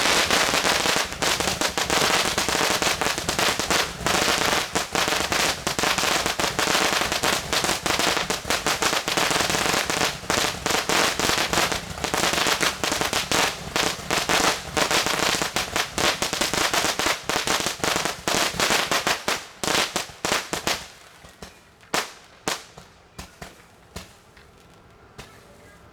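Fireworks going off in a dense, rapid string of cracks and pops for about twenty seconds, then thinning to a few scattered pops that die away.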